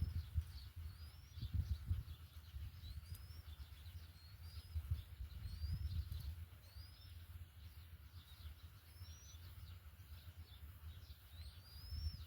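A small bird calling a short rising chirp over and over, roughly one every second and a half, over a low, uneven rumble.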